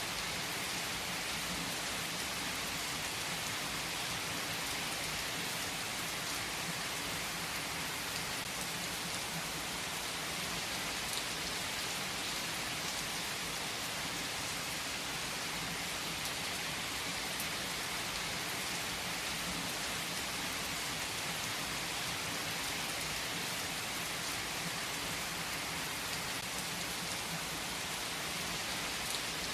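Steady rain falling on a surface, an even hiss of many drops with scattered faint drop ticks.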